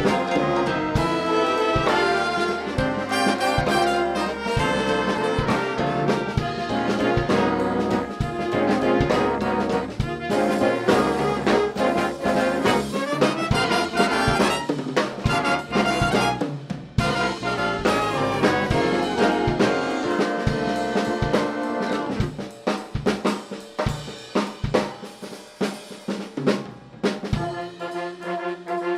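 Student band playing a Christmas piece: brass chords over a drum kit, thinning to shorter, punchier hits in the last third before the full brass returns near the end.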